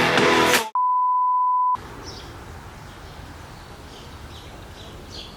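Guitar music cuts off, then a single steady electronic beep at one pitch sounds for about a second before stopping abruptly. After it comes quiet outdoor ambience with a few faint bird chirps.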